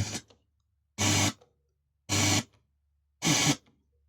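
Opel CDR500 car CD radio by Delco stuttering in playback: four short bursts of hiss-like sound about once a second, each cut off into dead silence, typical of a CD skipping on a scratched disc.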